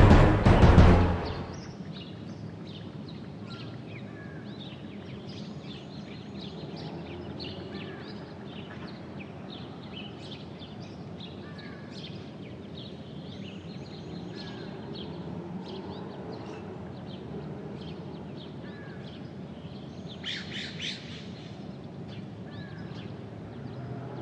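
A music cue ends about a second in, giving way to songbirds chirping and calling over steady low background noise, with a denser, louder flurry of chirps about twenty seconds in.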